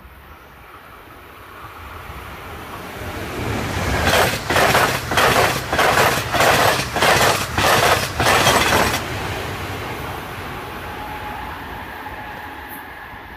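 A passenger train passing close at speed: its rush builds over the first few seconds, then becomes a loud, rhythmic whooshing with about two surges a second as the cars go by. The rhythm cuts off abruptly about nine seconds in as the last car clears, leaving a fading rumble.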